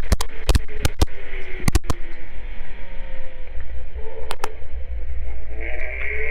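Kawasaki Z900 inline-four motorcycle engine, its revs falling away in the first second and then running on under a heavy low rumble. Several sharp clicks or knocks come through in the first two seconds and again about four seconds in.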